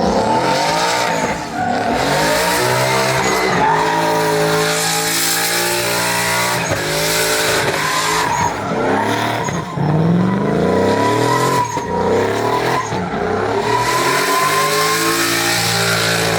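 A truck engine revving hard in a burnout, its pitch climbing and dropping about four times, over continuous tire squeal and hiss from spinning tires.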